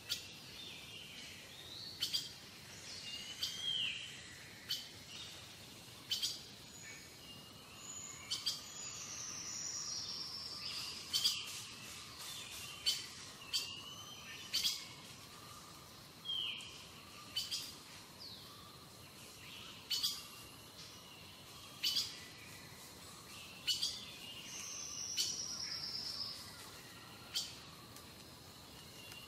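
Small birds calling: a string of short, sharp high chirps every second or two, with a couple of longer falling whistles.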